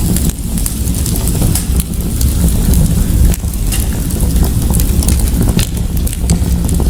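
Wood fire in a fireplace crackling: scattered sharp pops and snaps over a steady low rumble of burning.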